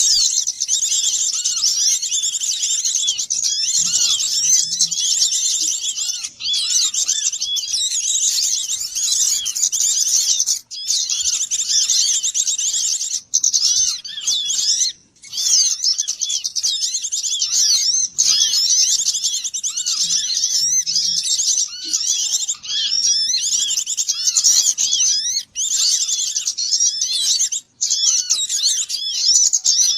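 A crowd of small birds twittering and chirping rapidly and continuously, many high-pitched calls overlapping: an agitated flock chorus of the kind used as a lure to draw small birds in. The chorus breaks off for a split second a few times.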